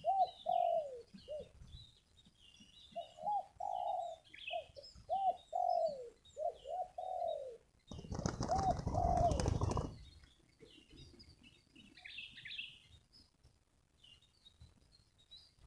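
Spotted dove cooing: a run of arching coos in several phrases, ending about nine seconds in. Small birds chirp high in the background, and a loud rustling burst lasts about two seconds near the dove's last coos.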